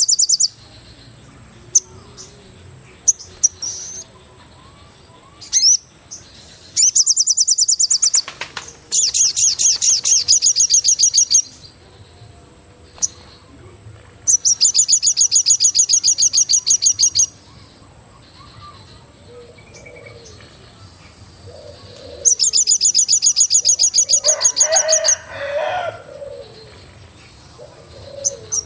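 Forest wildlife ambience: four bouts of rapid, high-pitched pulsed trilling, each lasting two to three seconds, over a steady thin high whine, with a lower call near the end.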